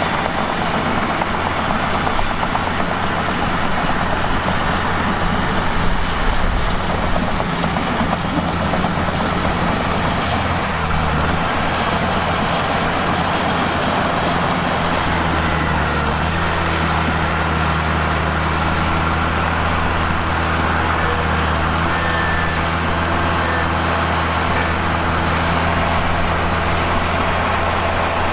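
Mitsubishi bulldozer's diesel engine running steadily under load, its note shifting a few times as the load changes, over a dense grinding noise of the machine at work.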